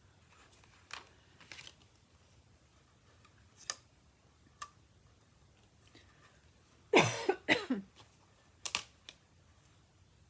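Thin metal cutting dies and cardstock handled on a tabletop: scattered light clicks and taps, with a louder brief clatter and rustle about seven seconds in and two more taps shortly after.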